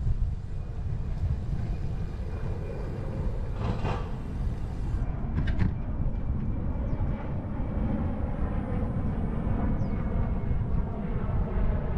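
Steady wind and riding rumble on the microphone of a bicycle-mounted 360° camera while pedalling, with a couple of short clicks about four and five and a half seconds in.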